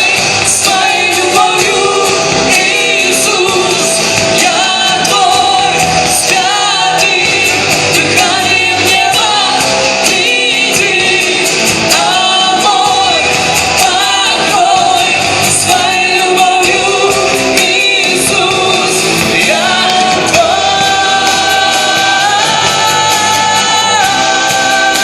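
Live church worship music: singing over a band, with the reverberation of a large hall.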